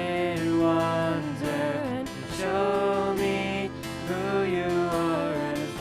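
Live worship music from a praise team: voices singing a slow praise song over sustained guitar and keyboard-like accompaniment.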